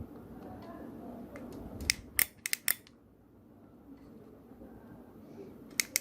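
A few sharp little clicks of small tools being handled during soldering work, in a quick cluster about two seconds in and again near the end, over a faint low hum.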